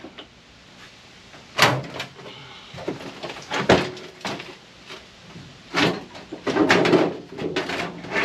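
Sheet-metal parts of a microwave being pried and pulled apart, making scattered clanks and scrapes. The sounds come a few seconds apart, then grow busier near the end.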